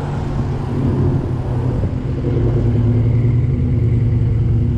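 A car engine running steadily, a low hum that grows a little louder about two seconds in.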